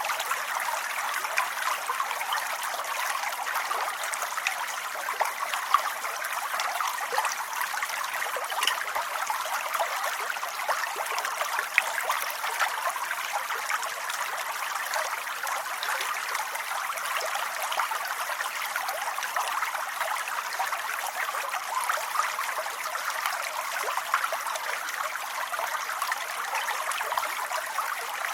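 Steady rain falling, an even hiss of many small drop hits that keeps up without change throughout.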